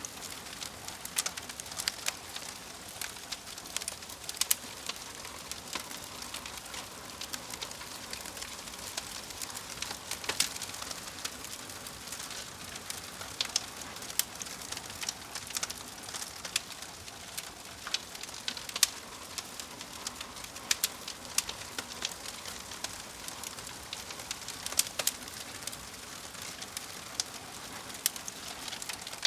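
Wood fire of burning logs crackling, with frequent irregular sharp pops and snaps over a steady soft hiss.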